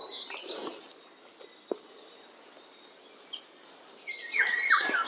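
Quiet riverbank ambience with a bird calling: a run of short, quickly falling whistled notes near the end. There is a single sharp click a little under two seconds in.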